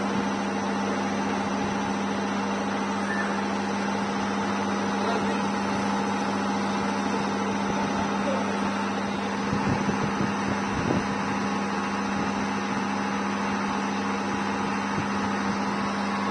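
Machine's electric motor running steadily with a constant hum, joined by a few short knocks about ten seconds in.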